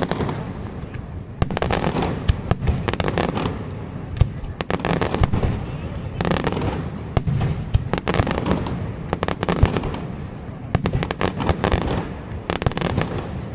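Aerial fireworks display: waves of rapid sharp bangs and crackling shell bursts every few seconds, over a steady low rumble of booming.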